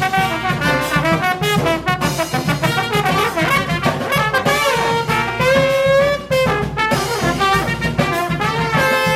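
Live brass band playing a lively tune, with many quick brass notes over a steady bass line.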